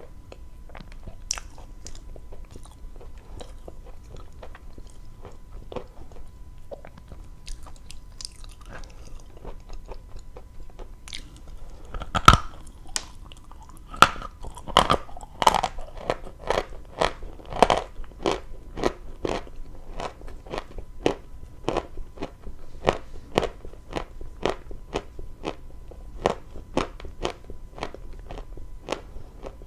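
Close-up crunching of dry chalk being bitten and chewed. Faint scattered crackles give way to one sharp, loud bite about twelve seconds in, followed by steady crunchy chewing at about two crunches a second.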